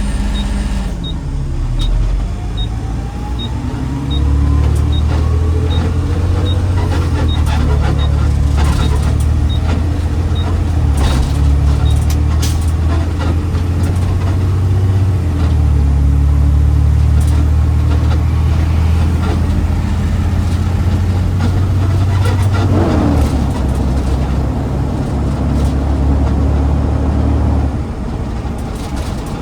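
Garbage truck's diesel engine running on the road, dropping in pitch at the start, then pulling away with rising engine pitch and holding a steady heavy drone. A faint ticking about twice a second runs through the first dozen seconds.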